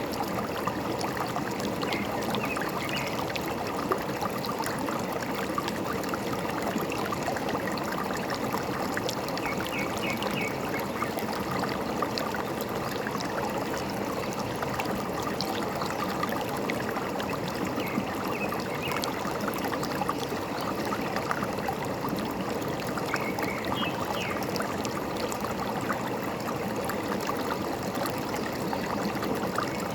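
Forest stream trickling and gurgling steadily, with a bird giving short clusters of high chirps every several seconds.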